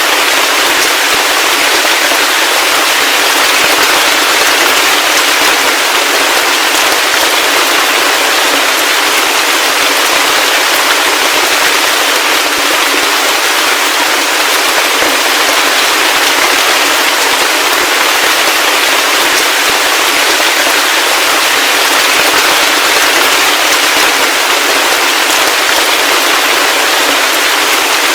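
Heavy rain falling steadily: a dense, even hiss of many close drops with no deep rumble beneath it.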